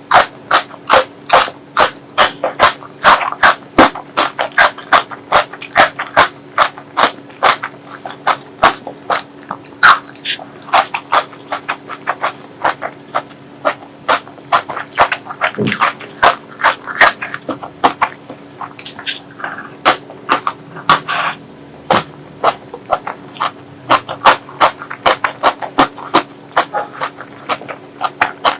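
Close-miked wet chewing and lip smacking while eating curry: a continuous run of short, sharp wet clicks, about two a second.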